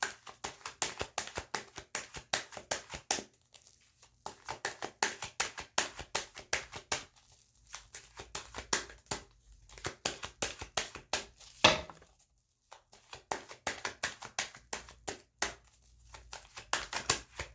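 Tarot cards being shuffled by hand: runs of quick, crisp card clicks broken by short pauses every few seconds, with one sharper snap about two-thirds of the way through.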